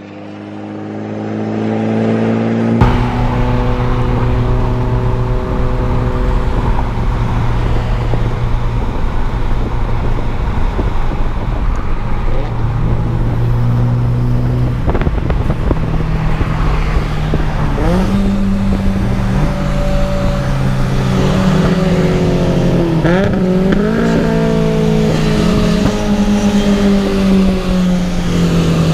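Car engine running under load at a steady speed, its pitch stepping and sweeping up and down several times as it revs and changes gear.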